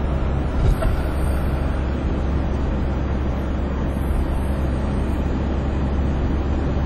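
Steady road and engine rumble of a car driving on a highway, heard from inside the cabin, with one brief thump just under a second in.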